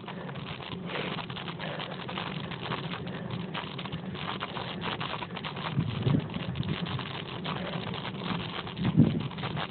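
Steady rumbling ride noise with frequent small clicks and crackles, from a bicycle climbing a mountain road, with a couple of louder low swells near the middle and end.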